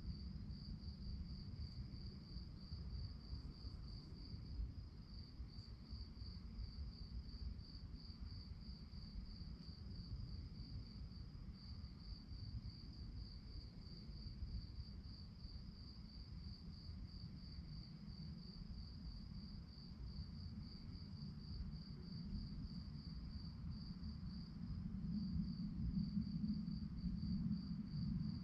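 Crickets chirping: a high, steady trill pulsing about three times a second without a break. A low rumble runs underneath and grows louder near the end.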